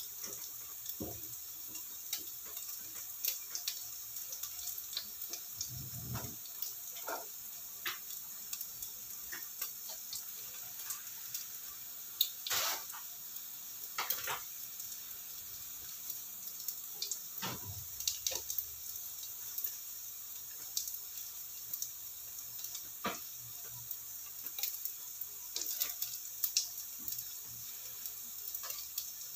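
Beef pieces and garlic frying in oil in a nonstick pan: a steady sizzle with irregular small pops and a few louder crackles.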